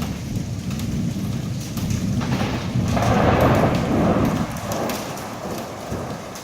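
Rolling thunder rumbling over steady heavy rain, swelling to its loudest about midway and easing off toward the end.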